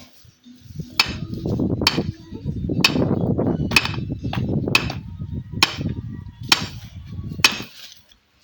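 Steady hammering: eight sharp blows about a second apart, over a low rumbling noise.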